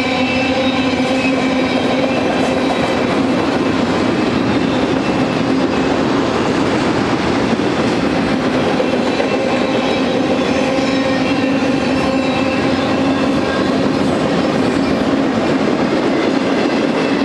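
Loaded freight-train flatcars rolling past close by: a steady rumble of steel wheels on rail, with several constant ringing tones over it.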